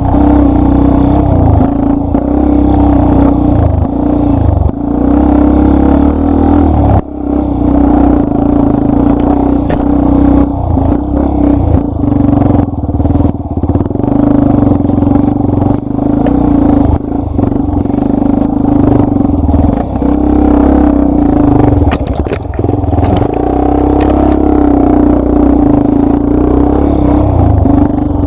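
Yamaha Lander 250's single-cylinder four-stroke engine running hard under load on a trail, its note holding fairly steady with a brief drop in throttle about seven seconds in. A few clattering knocks from the bike come about three quarters of the way through.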